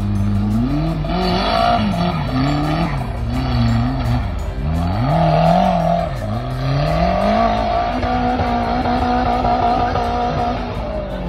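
Off-road competition 4x4's engine revving hard in repeated surges, climbing and falling as the vehicle claws through the course obstacle. Near the end it holds high revs for about three seconds, then drops away.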